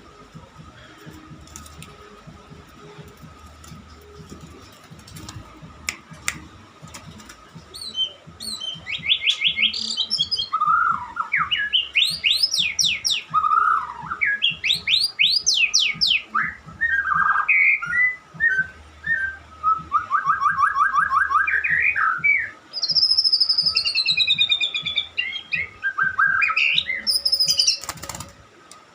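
White-rumped shama (murai batu) singing: after a quiet start, about eight seconds in it breaks into a loud, varied song of rapid trills and sweeping whistled phrases that runs until near the end.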